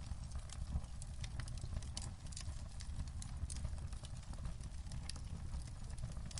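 Wood fire crackling in a fireplace: irregular sharp pops and snaps, many a second, over a steady low rumble.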